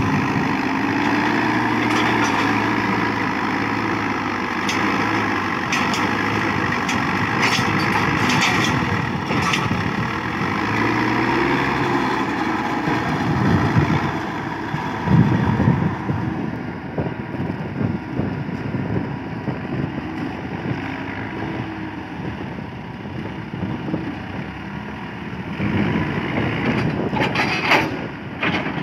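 JCB 4CX backhoe loader's diesel engine running under working load, its pitch and level rising and falling as the hydraulics are worked. Sharp metallic clanks come several times partway through and again near the end.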